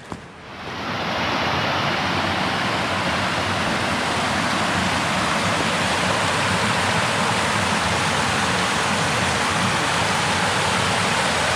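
Rushing river water pouring over rock, a loud, steady rush that swells up within the first second.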